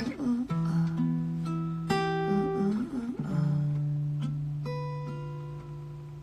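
Acoustic guitar playing a few slow chords, the last one struck about three seconds in and left to ring out and fade.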